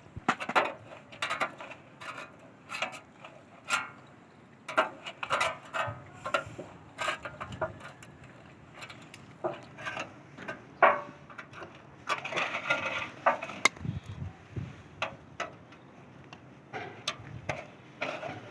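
Irregular knocks and taps, a few per second, with a denser stretch of scraping about twelve seconds in.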